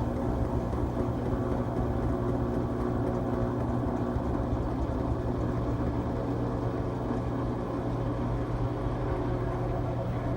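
LG Tromm WD-CR101C front-loading drum washing machine running mid-cycle on a quick wash: a steady motor hum with a few steady tones, even and unchanging.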